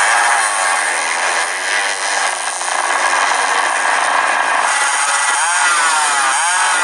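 Motocross bikes running loud on the track, a dense engine noise throughout. In the last two seconds an engine revs up and down several times.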